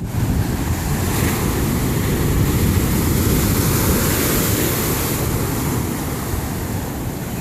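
Loud, steady roar of big ocean waves breaking and surging close by, heavy with low rumble and hiss, with wind buffeting the microphone.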